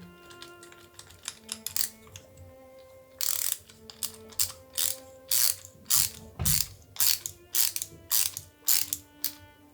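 Small parts of a model engine kit clicking and knocking together as they are handled and fitted: a few scattered clicks, then a steady run of about three sharp clicks a second from about three seconds in.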